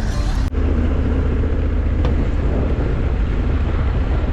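Motorcycle riding at road speed: a steady low engine drone with wind rushing over the microphone. There is a brief dropout about half a second in.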